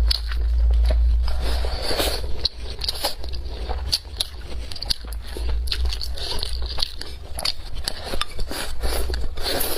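Close-miked eating: chewing and biting, with many short wet clicks and crackles from the mouth, over a steady low hum.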